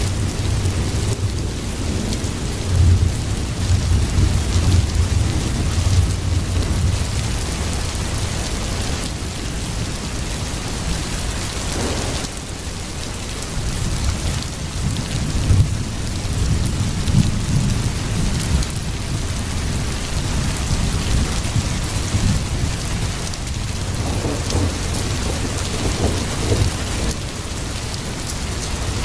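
Heavy rain falling steadily, a dense hiss, with low rumbling swells underneath that rise and fade a few times.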